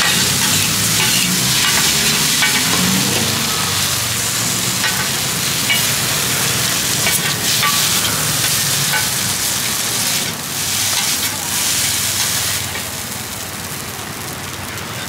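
Pad Thai noodles sizzling on a large flat pan as a cook stirs and scrapes them with a metal spatula, with scattered clinks of the spatula on the pan. The sizzle eases off over the last few seconds as the noodles are cleared from the pan.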